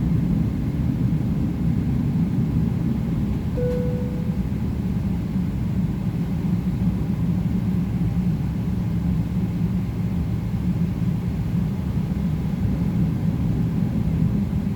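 Steady low rumble of cabin noise inside a Boeing 777-300ER, from its GE90 engines and airframe, heard from the front cabin. A short single tone sounds about four seconds in.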